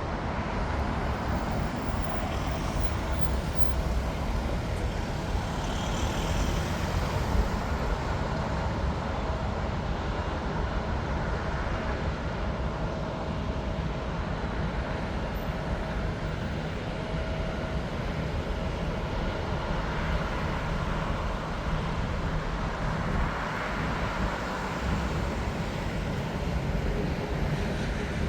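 Steady low rumble of road traffic mixed with distant jet aircraft noise at a busy airport, with no single sudden event.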